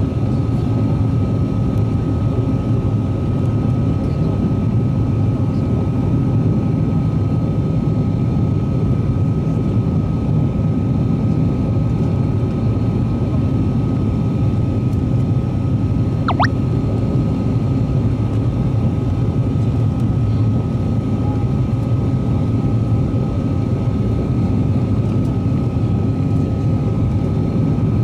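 Steady cabin noise of an ATR 42-600 turboprop, both engines and propellers running evenly with a deep rumble and a thin constant whine above it. A single brief sharp click is heard about two-thirds of the way through.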